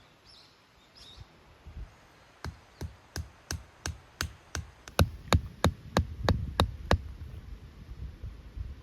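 Tent peg being hammered into the ground: about fifteen sharp strikes, roughly three a second, getting louder about halfway through.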